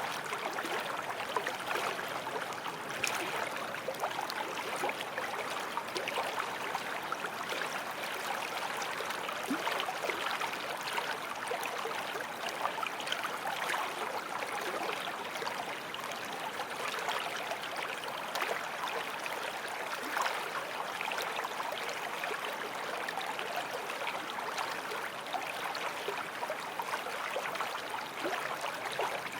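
A small forest stream flowing steadily over stones, with continuous splashing and gurgling.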